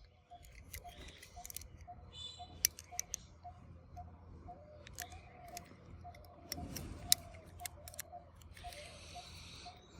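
Scattered sharp plastic clicks and small rattles as toy handcuffs and other small plastic toys are handled, with two brief rustling hisses, the longer one near the end.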